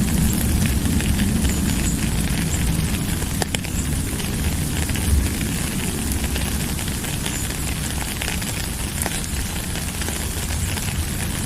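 Steady rain: an even hiss full of small drop ticks, with a low rumble underneath.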